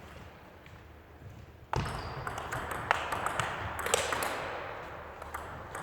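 Table tennis rally: the sharp clicks of a celluloid ball striking bats and the table, starting suddenly about two seconds in over a steady background din.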